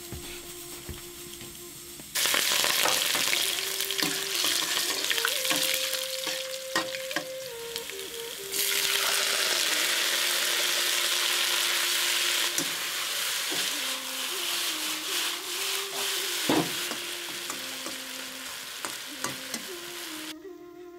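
Strips of potato sizzling loudly in hot oil in a steel wok, stirred with a metal spatula that clicks and scrapes against the pan. The sizzle starts suddenly about two seconds in as the strips go into the oil, grows louder again a little before halfway, and dies down near the end. A soft melody plays underneath.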